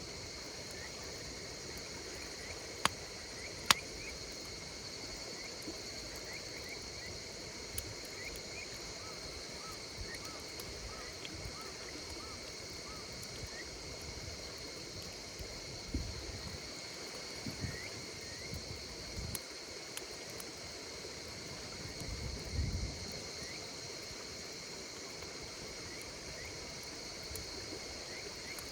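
Insects chirping in a continuous high, steady drone, with a wood fire crackling over it in a few sharp pops, two loud ones about three seconds in. Several dull low thumps come between about sixteen and twenty-three seconds in.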